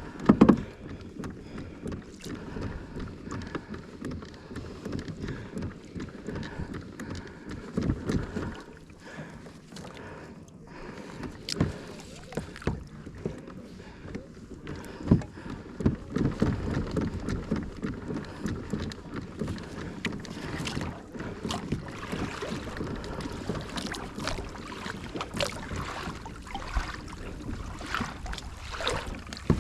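Kayak on the water: irregular knocks and bumps against the hull over the wash of water, the sounds of paddling and handling gear aboard.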